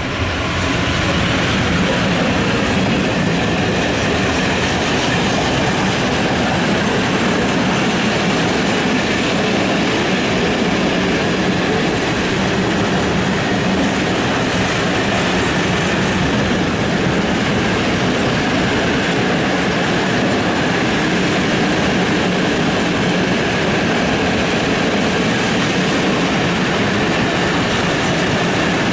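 Freight train of open coal wagons behind an ET22 electric locomotive rolling past close by: a loud, steady noise of steel wheels running over the rails, building up in the first second as the locomotive comes alongside and then holding even as the wagons stream past.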